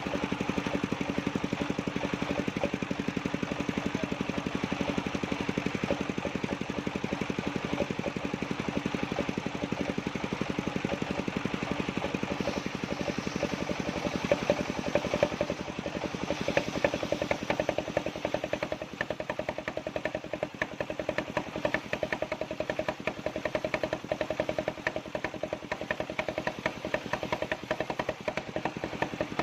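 Engine of a circular sawmill running steadily, its note changing about halfway through.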